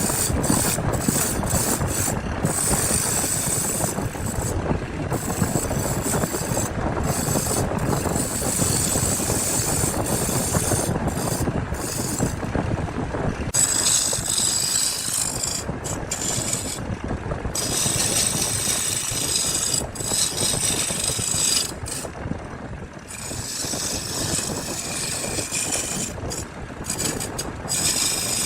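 A woodworking power tool running on wood, with a high whine that keeps cutting in and out.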